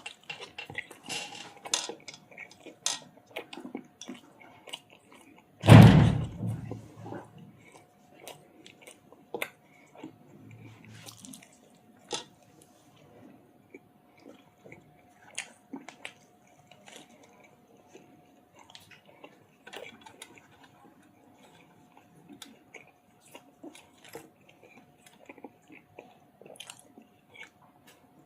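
Close-miked chewing and eating of chicken curry with roti and rice: many small wet smacks and clicks throughout, with one loud thump about six seconds in.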